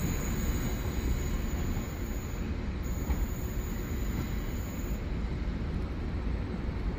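A train running at a railway platform: a steady low rumble without distinct tones.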